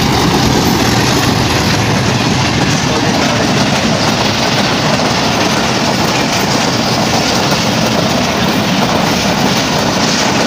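Diesel-hauled passenger train passing at close range, loud and steady: the locomotive goes by first, then the coaches' wheels running over the rails.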